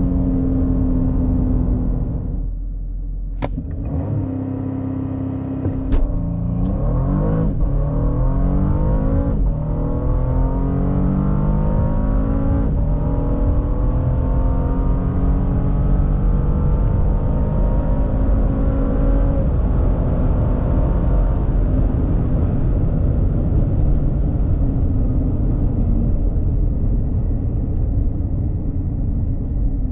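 Bentley Flying Spur Hybrid's 2.9-litre twin-turbo V6 accelerating hard. After a quieter moment with a few sharp clicks, the engine note climbs in pitch through several gears, dropping back at each upshift, then holds a steadier pitch near the end.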